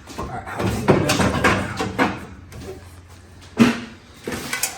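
Irregular knocks and clatter of metal parts and hand tools being handled during header work on a truck engine, over a low steady hum.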